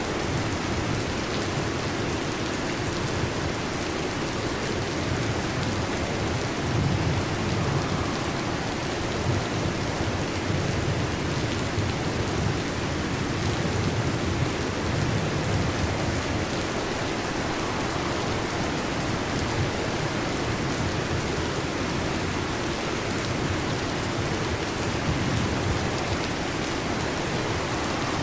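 Heavy rain beating steadily on a metal roof, with low rumbles of thunder swelling and fading several times.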